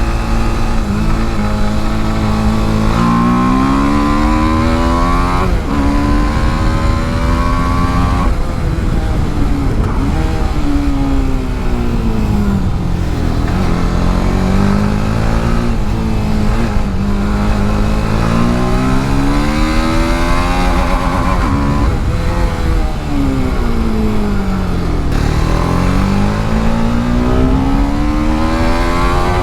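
TVS Apache RR310's single-cylinder engine at racing pace. The revs climb for several seconds at a time and then fall away sharply, over and over, as it accelerates out of corners and brakes and downshifts into them.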